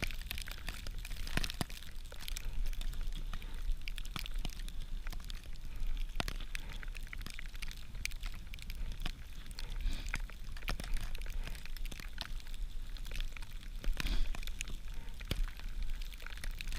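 Small campfire of birch bark and dry twigs crackling, with irregular sharp snaps and pops throughout, over a steady low rumble of wind on the microphone.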